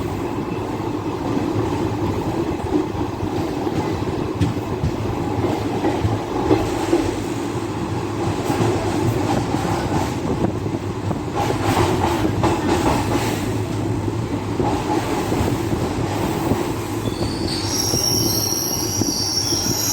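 DEMU passenger train running with a steady rumble and wheel clicks over the rail joints. High, wavering wheel squeal sets in near the end as the train comes into a station.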